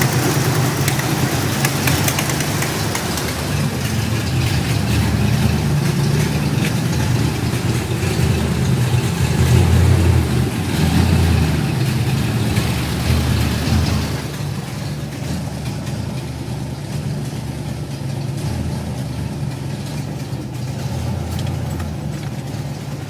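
Ford 5.0-litre V8 idling roughly, its low rumble surging and dipping unevenly; it settles a little quieter from about fourteen seconds in.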